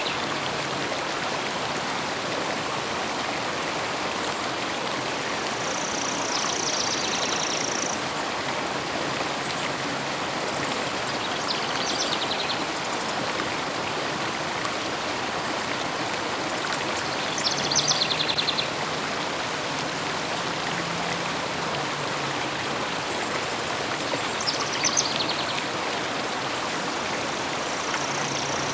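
A river flowing steadily, with short high bird trills rising above it about four times, the loudest about two-thirds of the way through.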